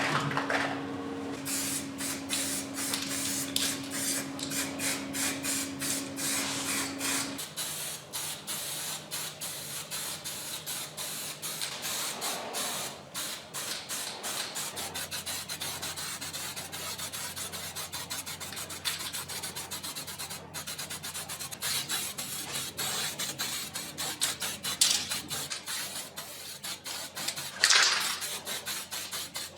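Spray painting with an aerosol can: short hisses of spray among rapid rattling and rubbing sounds.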